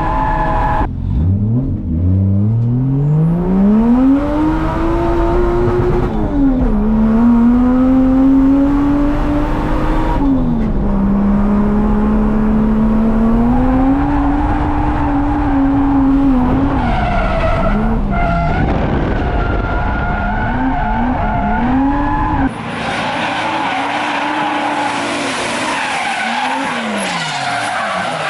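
Drift car at full effort: the engine revs climb, drop and hold again and again as the car is thrown through slides, with tyres squealing and skidding. About three quarters of the way through, the sound changes abruptly as the low rumble drops away.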